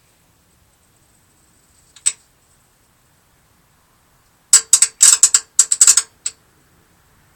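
Clicking from a Damon motorhome's hydraulic system: a single sharp click, then a couple of seconds later a loud, rapid run of about a dozen clicks lasting a second and a half, and one more click.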